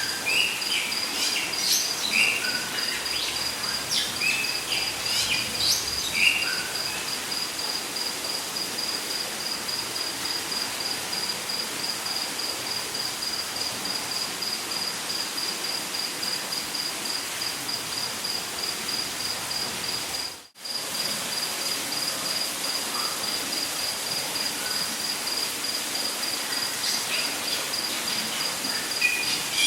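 Rainforest ambience: an insect trills steadily at a high pitch in rapid, even pulses over a constant hiss of falling water, with birds chirping in the first few seconds and again near the end. The whole sound drops out for a moment about twenty seconds in.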